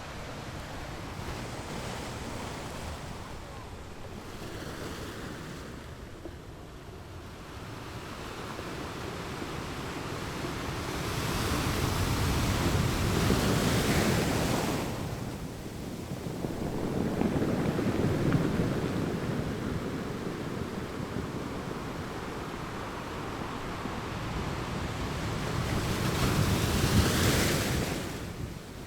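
Ocean waves breaking on rocks, with surges that build and fade: three larger waves break, the last and loudest near the end, which then drops off sharply. Wind noise runs under the surf.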